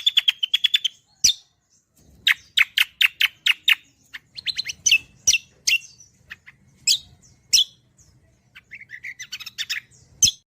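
Cucak kombo songbird singing a varied string of sharp chirps and quick trills, with sweeping whistled notes between; a faint low hum lies under it. The song stops just before the end.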